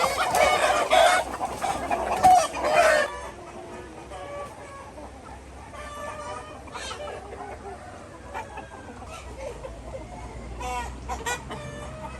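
Flock of chickens: loud squawking and calling for about the first three seconds, then softer, scattered clucking.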